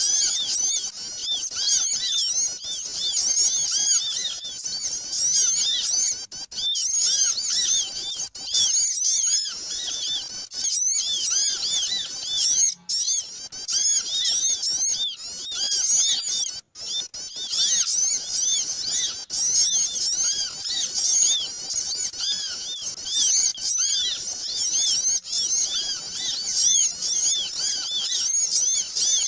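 A chorus of many small birds chirping rapidly and noisily, overlapping high-pitched calls without pause: a bird-lure (pikat) recording meant to draw small birds in.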